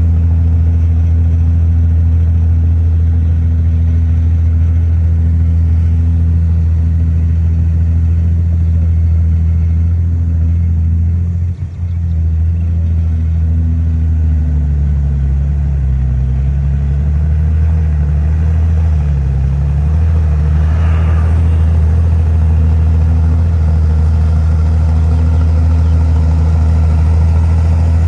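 Heavy diesel engine of an earthmoving machine running steadily. About halfway through, its note dips and recovers several times as the load changes.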